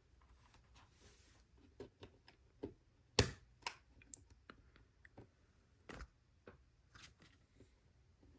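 LEGO bricks being handled and pressed together: scattered light clicks and taps of small plastic parts, the loudest a sharp click about three seconds in and another near six seconds.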